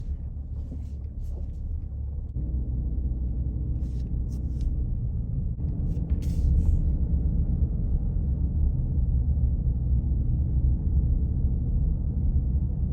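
Steady low rumble of a vehicle in motion, with faint tones that step in pitch a couple of times and a few short hissing sounds around four and six seconds in.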